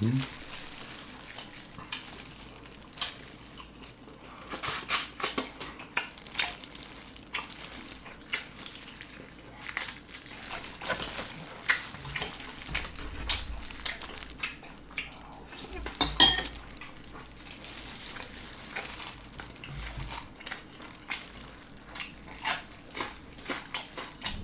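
Close-miked chewing of soy-sauce-marinated raw shrimp, shells on: irregular wet, crunchy clicks and crackles, louder clusters about five and sixteen seconds in.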